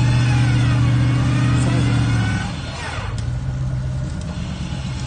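Off-road vehicle engine running steadily at raised revs, with a higher whine sliding up and down over it. About two and a half seconds in, it drops back to a quieter, steady idle.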